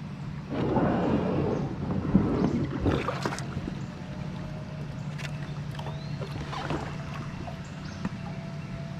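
Water splashing and rushing around a kayak on a river, loudest for about three seconds near the start, with a few sharp knocks.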